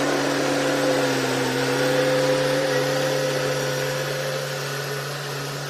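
Hitachi excavator's diesel engine running steadily with a held hum and whine that waver slightly in pitch, growing a little quieter over the last two seconds.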